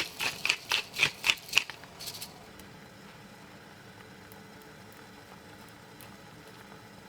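Quick, regular strokes of a kitchen utensil, about three to four a second, stopping about two seconds in; after that only faint room tone with a few light ticks.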